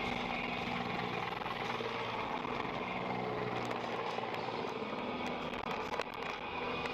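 A car driving, its engine and road noise steady, with a few faint clicks in the second half and a short knock about six seconds in.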